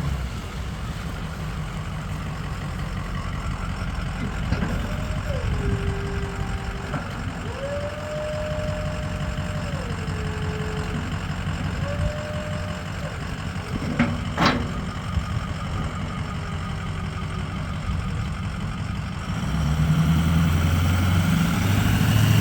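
Pickup truck's engine idling steadily. Over it a whining tone rises and falls in steps several times, with a sharp clank about two-thirds of the way through. Near the end the engine gets louder.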